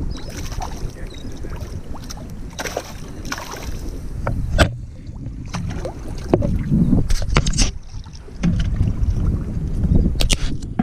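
Water slapping and sloshing against a small boat's hull, with scattered knocks and clicks from the boat and gear and wind rumbling on the microphone.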